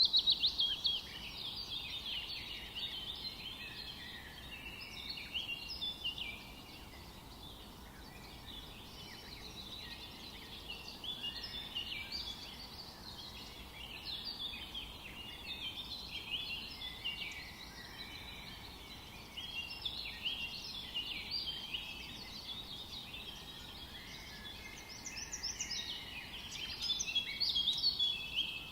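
Forest bird chorus: several songbirds singing at once, overlapping chirps and trills, with louder bursts of song near the start and again near the end.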